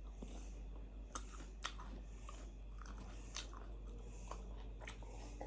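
Faint chewing and biting, with scattered small crunches and mouth clicks, over a steady low hum.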